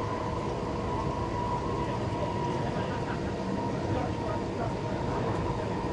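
Inside a moving passenger train: the carriage's steady rumble along the track, with a faint steady whine above it.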